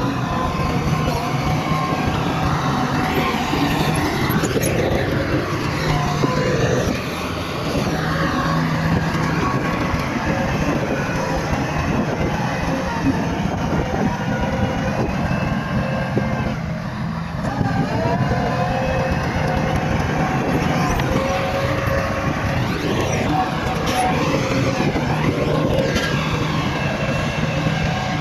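Bulldozer's diesel engine working under load, its pitch rising and falling as it revs, with a few sharp metallic knocks.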